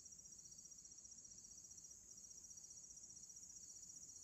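Crickets trilling steadily, faint and high-pitched, an even, fast pulsing with no pause.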